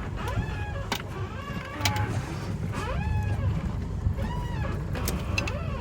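Steady low rumble of a sailboat under way, with a few sharp knocks on deck.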